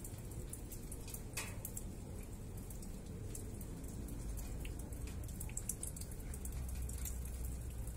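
Rain falling during a thunderstorm, with many separate drops dripping and ticking close by over a low, steady rumble.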